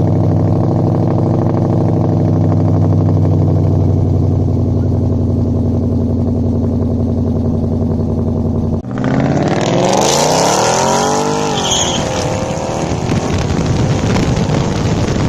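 Pickup truck engine idling steadily. About nine seconds in it cuts to the engine being revved, its pitch rising and falling back.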